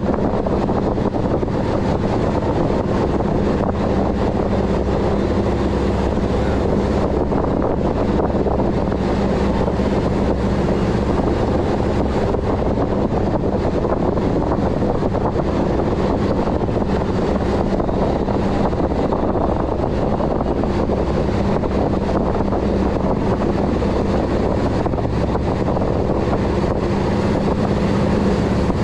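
Boat engine running steadily underway, a constant hum under a rush of wind and water, with wind buffeting the microphone.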